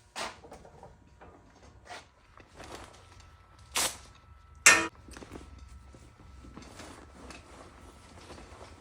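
Wooden boards being handled and set down in a woodshop: a few scattered knocks and clunks, the loudest two close together just before the middle.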